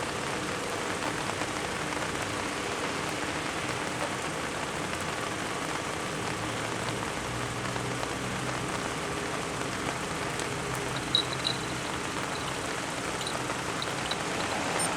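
Toyota Alphard engine idling steadily after a remote start by its Viper engine starter, with a couple of faint short high tones about eleven seconds in.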